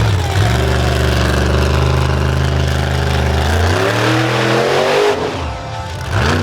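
Monster truck engine running at a steady high speed, then revving up in a rising whine and letting off about five seconds in, with another short rev near the end.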